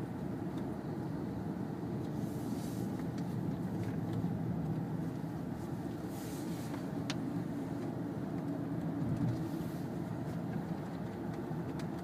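Steady road and engine noise heard from inside a Kia Sedona minivan driving along, a low rumble with a few faint ticks.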